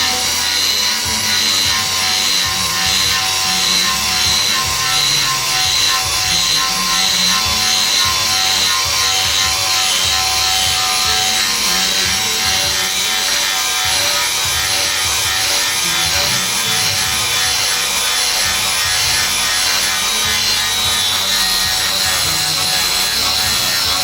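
Makita DGA404 18 V cordless angle grinder running steadily under load, its disc grinding or cutting against material, with a constant high motor whine over a rough rasping noise.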